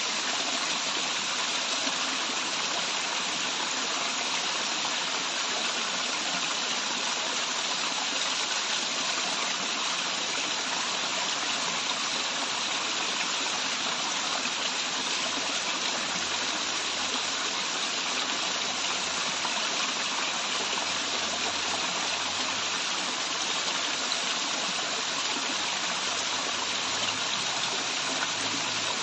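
Waterfall: falling water rushing steadily and unbroken.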